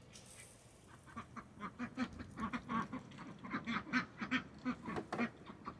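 Backyard poultry calling in rapid short repeated notes, about three or four a second, starting about a second in.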